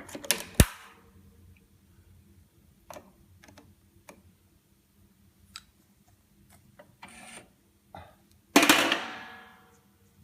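Metal transmission parts and tools being handled on a workbench: scattered clicks and knocks, a sharp knock about half a second in, and a loud metallic clank near the end that rings out for about a second.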